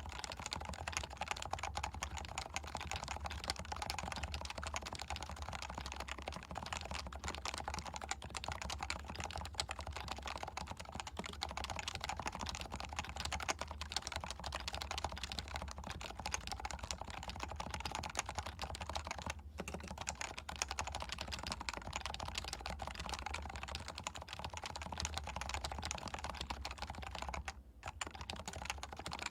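Continuous typing on a Leopold FC660C keyboard with stock, non-silenced 45 g Topre electrocapacitive switches, recorded through a Shure MV7 microphone. A dense stream of key clicks runs on, with a brief pause near the end.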